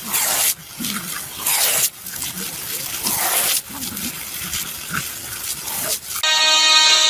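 Garden hose nozzle spraying water in bursts while two dogs snap at the stream, with short dog noises between the bursts. Music starts suddenly about six seconds in.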